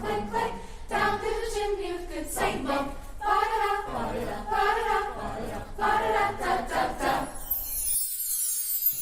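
A choir singing in several-part harmony. The singing breaks off about eight seconds in, leaving only a brief high hiss.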